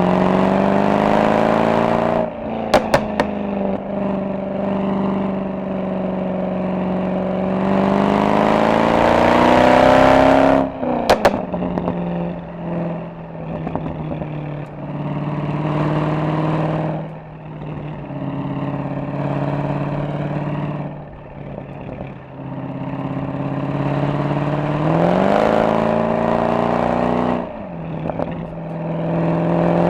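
Mercedes-AMG SL63 V8 exhaust under way, pulling hard with the pitch rising. The note drops sharply when the throttle closes. Twice, on lift-off, it gives a quick burst of sharp pops on the overrun.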